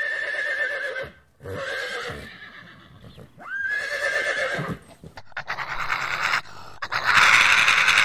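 A horse whinnying: three shaky, wavering calls in the first five seconds, the third sweeping up in pitch at its start, then a rougher, noisier stretch full of rapid clicks that is loudest near the end.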